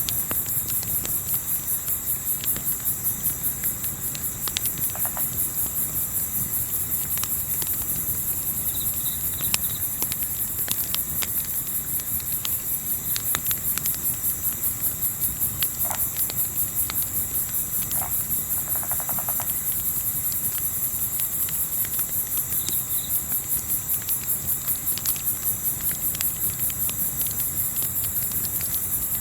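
Night insects such as crickets chirring steadily in a dense, high, rapidly pulsing chorus, over a soft low rumble. Scattered sharp crackles of a campfire and a few brief, faint chirping calls are heard now and then.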